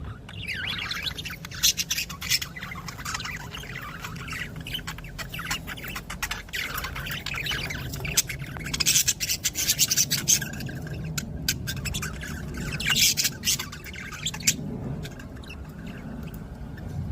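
Budgerigars chattering and squawking, with louder bursts of squawks about 2 seconds in, again around 9 to 10 seconds, and near 13 seconds, over a steady low hum.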